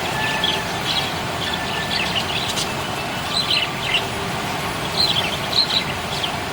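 Budgerigars chirping in short, scattered clusters of quick high chirps over a steady background hiss.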